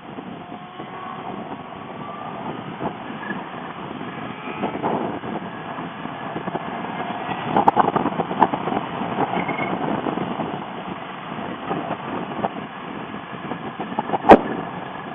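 Motorcycle riding on the road, its engine and the wind rushing over the microphone, getting louder partway through, with a sharp click near the end.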